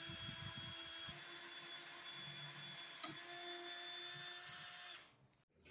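A small electric power tool's motor running with a steady whine, its note dropping out briefly about a second in and again about three seconds in, then cutting off near the end.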